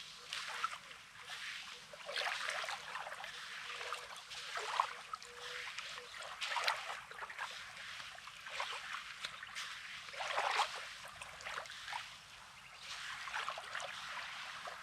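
Small sea waves lapping at a rocky, pebbly shore, each wash rising and falling every second or two with a crackling fizz as the water runs over the stones.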